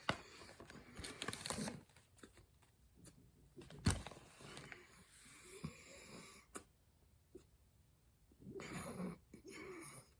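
Close-up mouth sounds of someone biting and chewing crunchy packed cornstarch, in uneven bursts of crackling, with one sharp crack about four seconds in.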